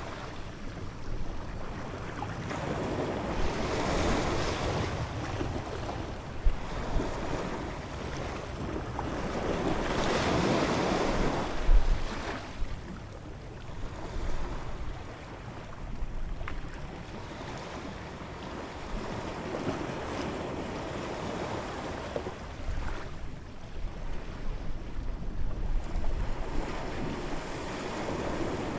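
Ocean waves washing in, the surf swelling and falling away every several seconds, with wind rumbling on the microphone.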